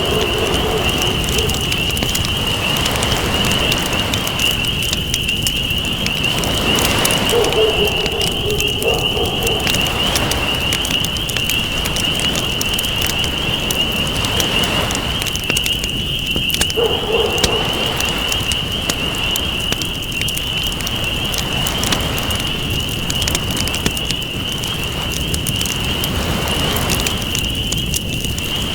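Campfire crackling with scattered pops over ocean waves washing in and out in slow swells. A steady high-pitched tone runs underneath, and brief low calls sound about 8 and 17 seconds in.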